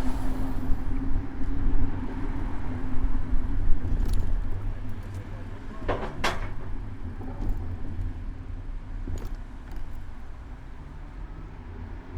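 City road traffic heard from a moving bicycle: a steady low rumble of car and bus engines, easing off over the span, with a short sharp noise about six seconds in.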